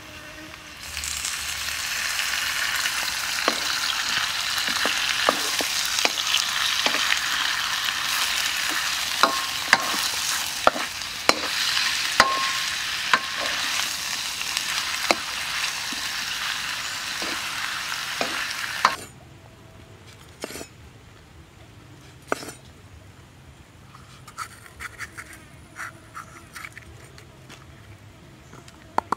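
Meat and aromatics sizzling in hot vegetable oil in a steel wok, stirred with a spatula that knocks sharply against the pan now and then. About nineteen seconds in, the sizzling cuts off abruptly, leaving a quiet stretch with a few faint knocks.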